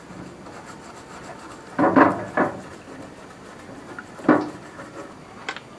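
Faint scraping and rubbing as carbon is cleaned from a Holden 173 piston's ring grooves, broken by a few sharp knocks of the piston being handled, the first with a brief ring.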